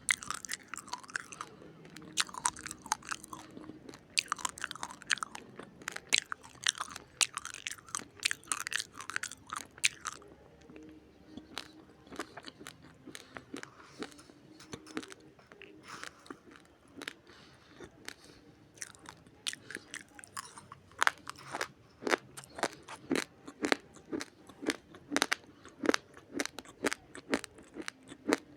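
Raw, uncooked rice grains crunched and chewed close up. The crisp, crackly crunches come thick and fast at first, thin out in the middle, then settle into steady chewing crunches about two a second near the end.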